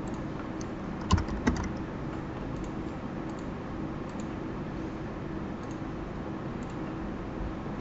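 Two sharp clicks a little after a second in, with a few faint ticks, from a computer being operated, over a steady electrical hum.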